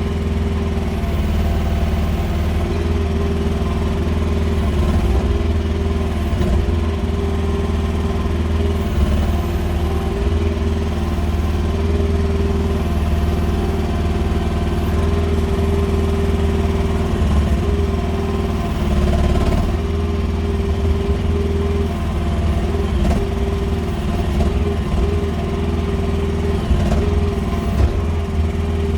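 QH13R mini excavator engine running steadily while the machine works, with a tone that comes and goes and scattered short knocks and clatter.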